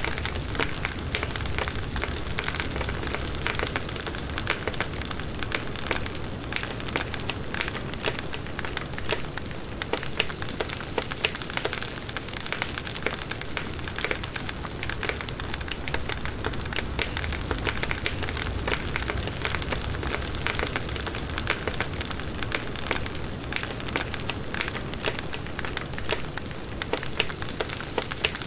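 Campfire of firewood logs burning, with steady crackling and frequent small sharp pops.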